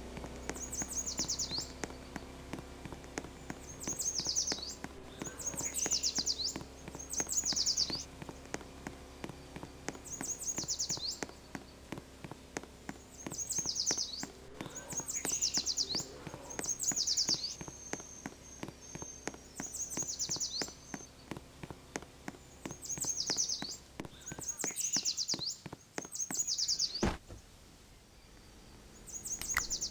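A bird singing a short, high, trilled phrase over and over, every two to three seconds, over a scatter of faint ticks.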